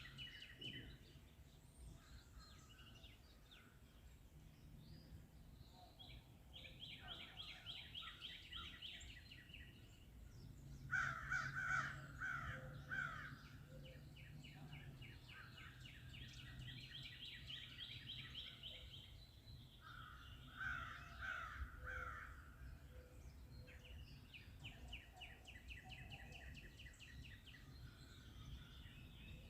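Forest birds singing and calling: several bursts of rapid repeated high notes, and twice, about eleven and twenty seconds in, a run of three or four harsher, lower calls.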